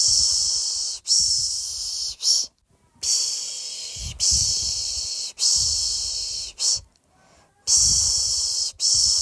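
A person's voice making 'pşşş' shushing sounds to soothe a baby to sleep: long hisses of about a second each, coming in runs of three with a short pause between runs.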